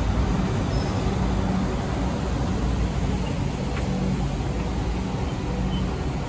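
South Western Railway electric multiple unit close by at the platform, giving a steady low rumble and hum from its motors and running gear, easing slightly over the seconds.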